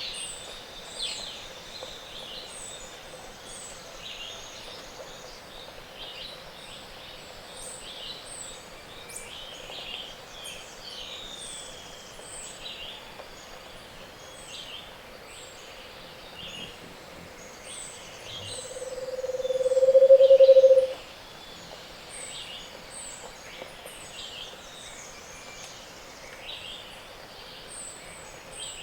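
Morning chorus of tropical forest birds, with many short high chirps and calls throughout. About two-thirds of the way in, a Scaled Antpitta gives its low song, which swells in loudness for about two seconds and stops abruptly; it is the loudest sound.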